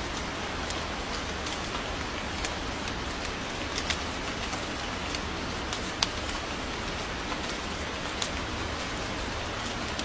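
Steady rain falling, an even hiss with scattered louder drops ticking close by, a few of them clearly louder than the rest.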